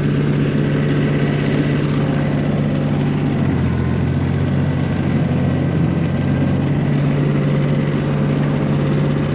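1985 John Deere 1050 tractor's diesel engine running steadily while plowing snow, its note shifting slightly about three and a half seconds in.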